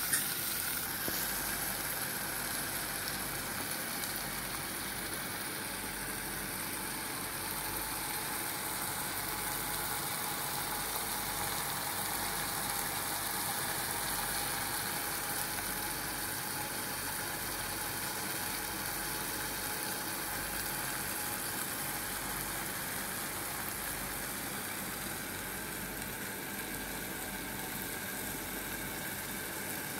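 Prawns frying in a pot over a gas burner: a steady, even sizzle.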